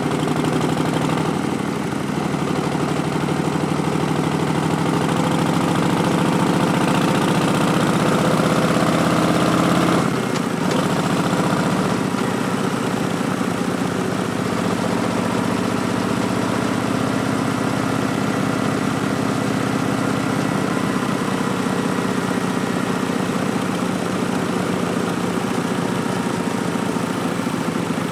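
Harley-Davidson Street Bob's Milwaukee-Eight 107 V-twin running through Vance & Hines Twin Slash slip-on exhausts while riding. The engine pitch climbs as the bike accelerates, dips suddenly about ten seconds in, climbs again more slowly, then holds steady at a cruise.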